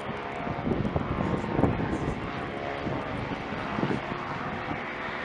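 A fixed-wing airplane's engine running steadily, half buried under wind buffeting the microphone in irregular gusts.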